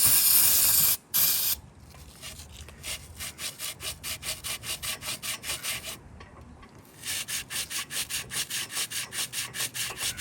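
Two short blasts of spray hissing onto a Chrysler 383 engine block, then a stiff brush scrubbing the block in quick back-and-forth strokes, about four a second, with a brief pause midway.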